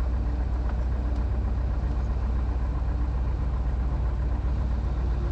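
Van's RV-9A's piston engine and propeller running steadily, heard as a constant low droning rumble that does not rise or fall.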